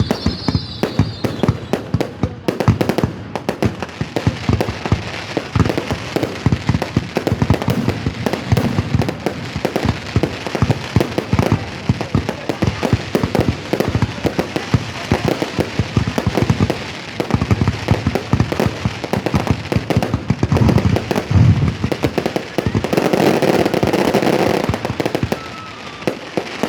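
Fireworks going off in a rapid, continuous barrage of bangs and crackles, thickest about three-quarters of the way through.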